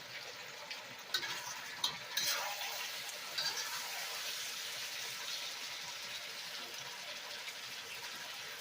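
A few sharp metal clinks, like a spatula knocking against a wok, then a steady sizzling hiss from about two seconds in.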